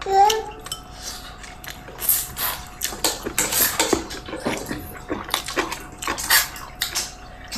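Bowls and spoons clattering and clinking at a meal, in a quick irregular run of knocks, after a short high vocal sound at the very start.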